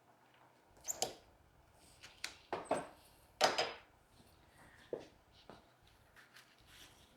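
Flower stems and foliage being handled: a few short rustles and small knocks, the loudest about three and a half seconds in.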